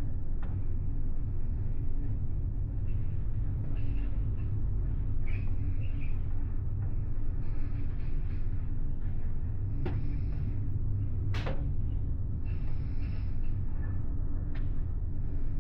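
Steady low rumble of a large car ferry underway, its engines and hull vibration heard from inside a passenger cabin, with a faint steady hum and a few short clicks.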